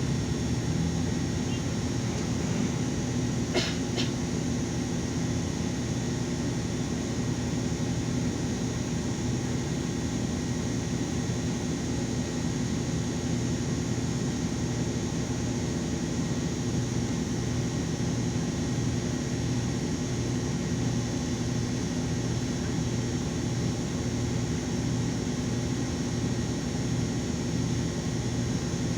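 Steady running noise of a LiAZ 5292.22 city bus heard from inside the cabin, with a low hum and a low tone that pulses evenly through the second half. A brief click or rattle is heard about four seconds in.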